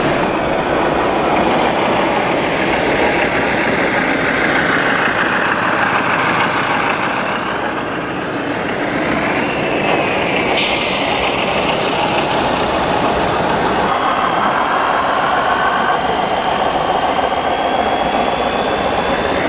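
Radio-controlled 1/14-scale construction models working: a steady mechanical din of small electric motors and gearboxes, with faint whines that rise and shift in pitch and one sharp click about halfway through.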